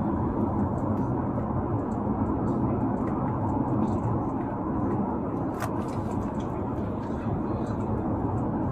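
Steady low rumble of a running car, with a single sharp click about five and a half seconds in.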